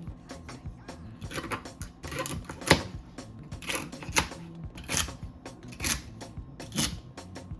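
Irregular clicks and clacks of small hard objects being handled, the sharpest knock about a third of the way in, over soft background music.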